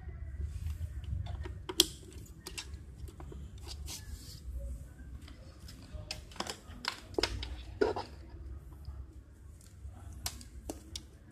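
Irregular clicks and knocks of an APC UPS's parts being handled and fitted together during reassembly, the sharpest about two seconds in and a quick cluster around six to eight seconds, over a low steady hum.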